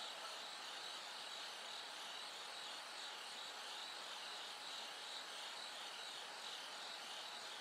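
Bell crickets and other autumn insects singing in a steady, high-pitched, wavering chorus.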